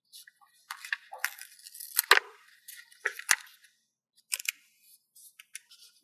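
Paper stickers being handled: crinkly rustling of paper with several sharp ticks, the loudest about two seconds in and again just after three seconds.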